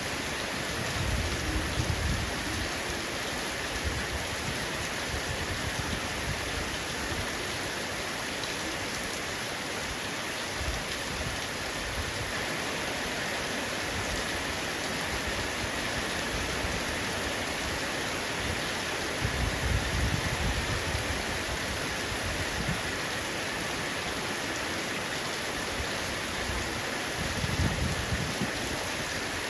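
Heavy rain falling steadily on a roof, a dense even hiss of drops. Three brief low thunder rumbles swell under it: about a second in, about two-thirds of the way through, and near the end.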